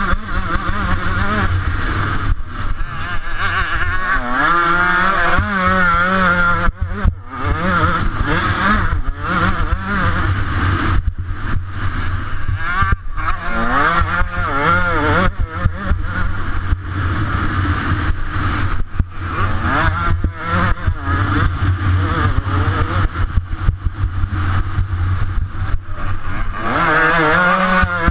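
125cc motocross bike engine revving hard, its pitch climbing and dropping again and again as it accelerates and backs off, with a brief let-off around seven seconds in. A steady low rumble runs underneath.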